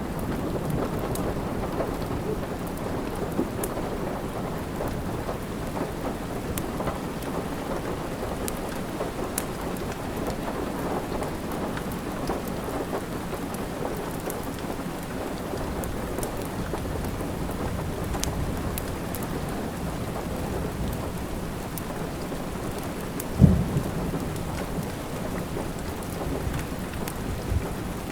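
Steady rain with the scattered small pops and crackles of a wood fire, and one sharp low thump near the end.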